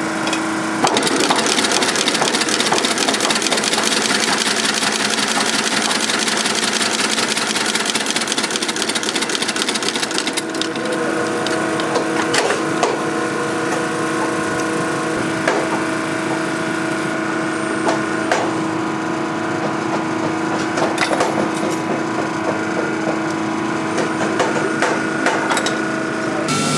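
A shop machine's motor running steadily while material is ground against it during boot resoling. The grinding is heaviest for the first ten seconds or so, then lighter, with scattered sharp knocks and clicks, and the motor hum cuts off just before the end.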